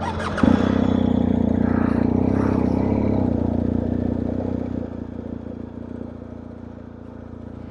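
Motorcycle engine running, its level jumping up sharply about half a second in and falling back after about five seconds.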